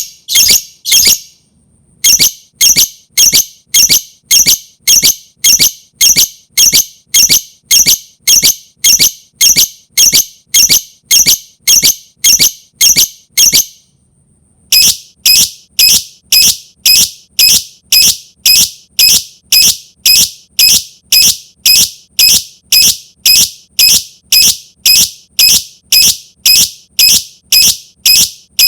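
Lovebird's shrill calls, repeated in a steady rhythm of about one and a half a second, with two short breaks about a second and a half in and about fourteen seconds in. It is a lure recording (pancingan) meant to provoke other lovebirds into calling.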